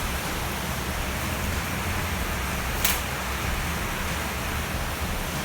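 Steady rain hiss with one sharp click about three seconds in.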